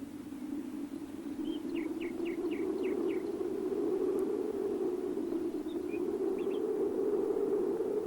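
Cartoon wind sound effect, a steady low whoosh that swells slowly, with a quick run of about six bird chirps a second and a half in and a few more chirps around the middle.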